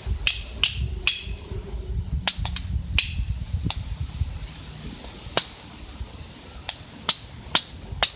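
Wood burning in a camp stove, crackling with about a dozen sharp, irregular pops over a low rumble.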